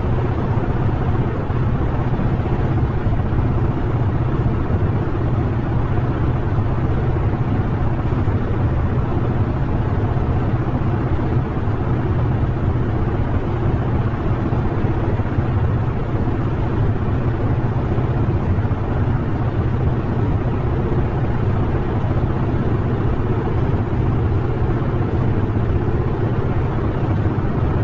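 Steady, dense low noise with most of its weight in the bass, holding evenly with no rhythm, pitch changes or breaks, played as the 'sound' of the Cartwheel Galaxy, a ring-shaped galaxy.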